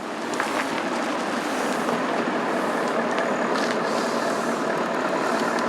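A bus driving on a rough, potholed country road: steady engine and road noise.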